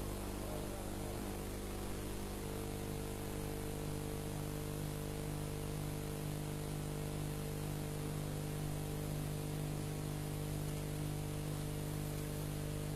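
Steady electrical mains hum with a constant hiss from the sound system and recording, unchanging throughout.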